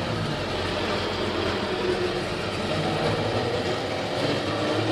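Motor vehicle engine running steadily, a continuous low hum under even noise.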